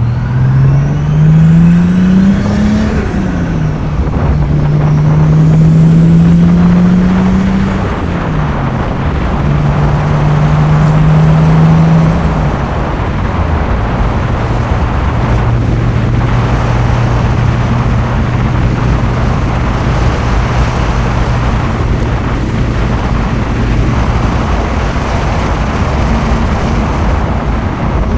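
The 1994 Nissan Skyline GTS25-T's turbocharged RB25DET 2.5-litre inline-six pulls hard, rising in pitch, then drops at a gear change. It pulls up again through a second gear and shifts again, with a faint high whine rising with the revs. After that it settles into a steady, lower cruise for the rest of the stretch.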